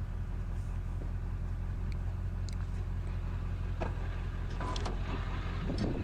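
A vehicle's engine runs steadily with a low hum. A few light clicks and knocks are heard over it.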